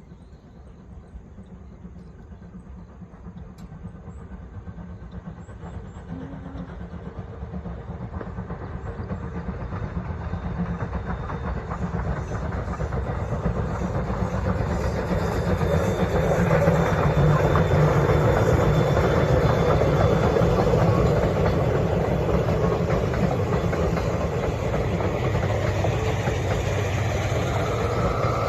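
Chichibu Railway train approaching, growing steadily louder over about fifteen seconds, then running close by with a loud, steady rumble.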